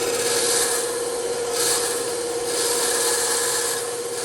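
Bandsaw running with a steady hum while its blade shaves small bits off the edge of a wooden cutout. Each of three short cuts adds a hissing rasp.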